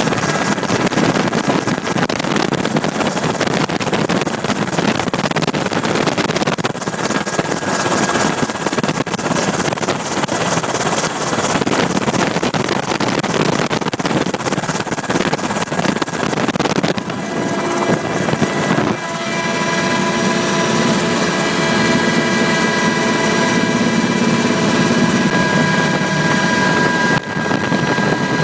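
Steady engine and wind noise heard from on board a flying aircraft. About two-thirds of the way through, the rushing eases and a set of steady whining tones comes through.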